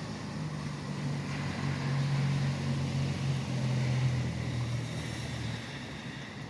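Steady rain hiss with a vehicle passing on the highway: a low engine and tyre drone swells over a few seconds, peaks mid-way and fades out near the end.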